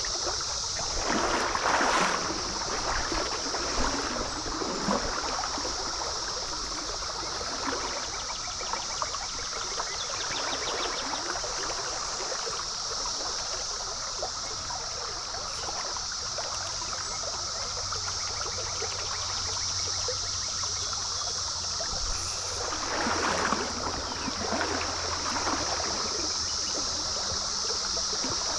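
Stream water running over riffles under a steady, unbroken high drone of a periodical cicada chorus, with two louder bursts of splashing, about a second in and again near the end.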